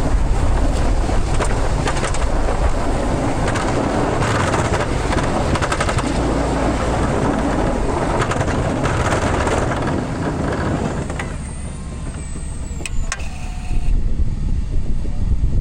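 Pickup truck running with a steady rushing road noise. The noise drops away for a few seconds about eleven seconds in, with two sharp clicks near thirteen seconds, then comes back up.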